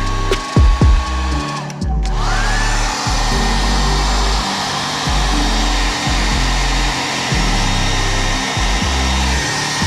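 Handheld hair dryer running with a steady motor whine. About two seconds in it cuts briefly, then speeds up to a higher-pitched whine that holds. It is warming a phone mount's adhesive in the cold.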